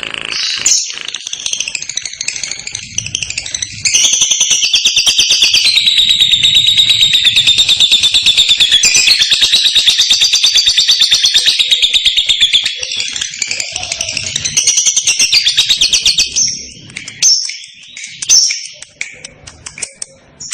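Female lovebird singing its ngekek: scattered sharp chirps, then about four seconds in a long, rapid, unbroken chattering trill that runs for about twelve seconds before breaking back into shorter chirps.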